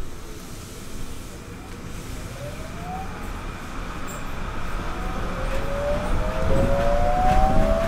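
Kobe New Transit 3000 series Rokko Liner car accelerating: the Mitsubishi SiC VVVF inverter's whine rises in pitch, with a second rising tone joining about halfway, over running noise that grows louder as the train picks up speed.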